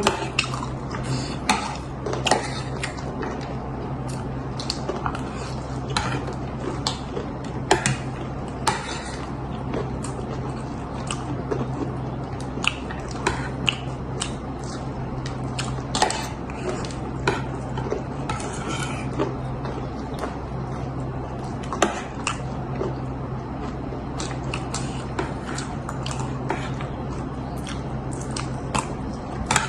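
Spoons clinking and scraping against bowls as spicy chatpate is eaten, with short, irregular clicks scattered throughout. A steady low hum runs underneath.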